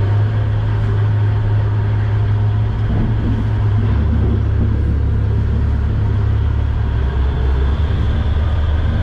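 Service boat's engine running steadily, a deep continuous drone heard from aboard.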